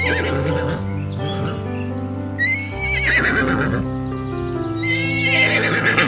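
Horse whinnying twice, a shrill call about two and a half seconds in and another near the end, over soft background music with sustained chords.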